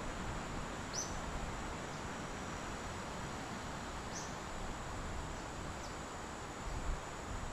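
Steady outdoor ambience hiss with a few short, high bird-like chirps, about a second in and again about four seconds in.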